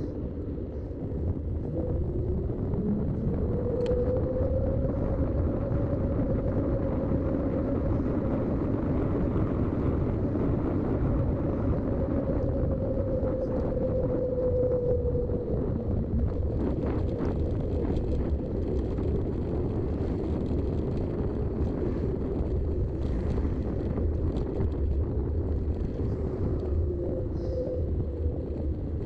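Mountain bike on Schwalbe tyres rolling along at speed, its tyres giving a steady hum that rises and falls slightly in pitch with speed, over low wind rumble on the action-camera microphone. Light ticks and rattles from the bike come in now and then in the second half.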